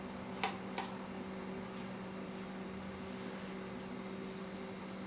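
Steady electrical hum with its overtones, with two light clicks about half a second apart near the start.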